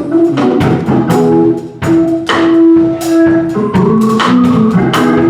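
A church praise team performing a gospel song: long held notes over sharp, repeated percussion strikes.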